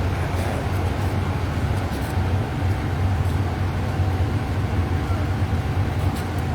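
Steady low rumble of a running vehicle, with a faint steady tone above it and no sudden changes.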